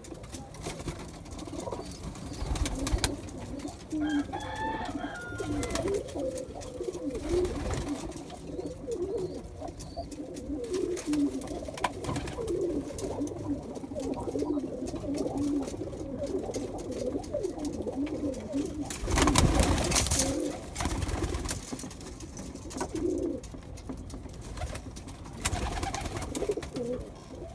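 Pigeons cooing over and over, low coos overlapping one another. About two-thirds of the way through, a loud burst of noise lasts about a second.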